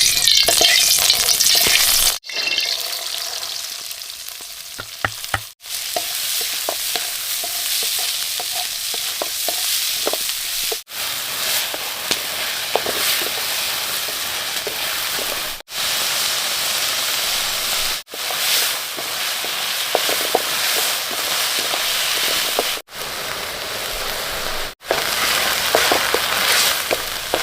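Food frying in a hot pan, a steady sizzle with faint utensil clicks, broken by several abrupt short gaps.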